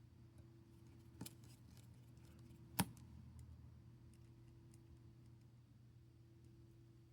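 Near silence over a faint steady hum, broken by two small sharp clicks about a second and a half apart, the second louder, with a few faint ticks: small tools and parts being handled during a smartphone repair.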